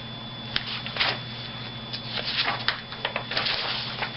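Soft, irregular rustling and handling noises over a steady low electrical hum.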